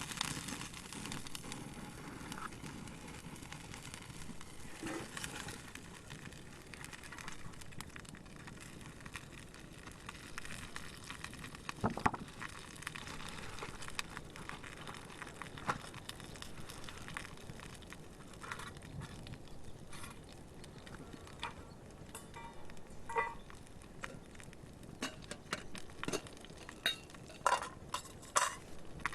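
Wood campfire crackling and popping under a pan of cooking oil, over a steady hiss. Sharp pops come more often near the end.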